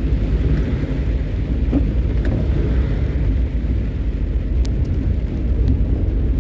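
A vehicle driving, a steady low rumble of road and engine noise, with a few faint ticks about three-quarters of the way through.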